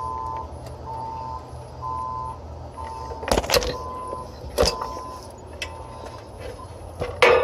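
A steady low motor hum runs under a repeating two-tone electronic beep, roughly once a second. Sharp metallic clanks come a little past the middle and again near the end, as hoses and tools are handled.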